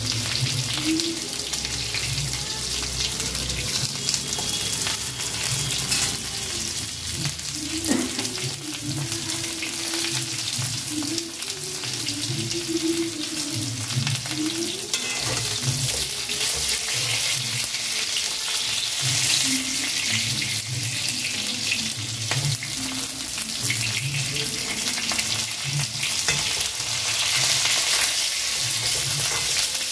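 Pieces of pointed gourd (potol) frying in hot oil in an aluminium kadai, sizzling steadily while they are fried through so they won't stay hard. A spatula stirs and scrapes against the pan, giving an occasional click.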